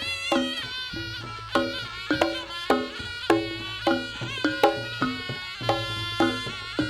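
Live jaranan gamelan music: a held, wavering high melody line over drum and pitched percussion strokes about two a second.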